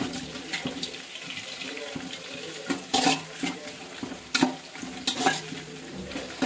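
Sliced onions and bay leaves frying in hot oil in a metal pot, a steady sizzle, while a spatula stirs and scrapes against the pot several times.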